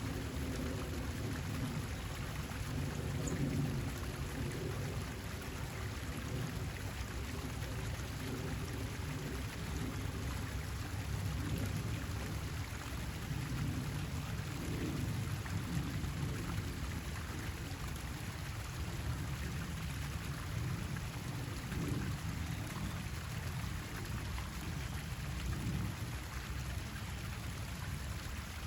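Steady rushing outdoor noise with a low rumble underneath, unbroken and without clear birdsong.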